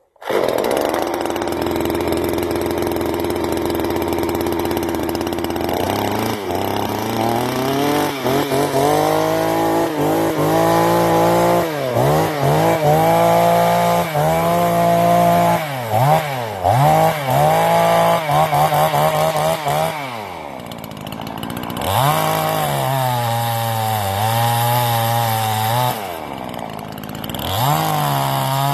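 Generic 45cc two-stroke chainsaw running. It holds a steady speed for the first few seconds, then is revved up and down over and over, easing back to a lower speed twice near the end.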